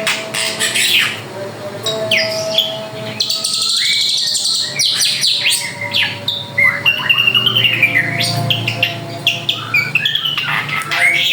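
A drongo singing a fast, varied song of whistles, sliding notes and harsh chattering calls, one phrase after another.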